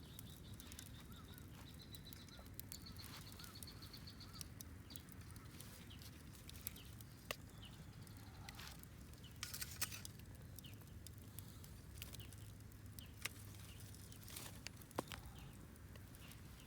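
Wood campfire crackling faintly, with irregular sharp pops and snaps. Faint bird chirps and a high trill in the first few seconds.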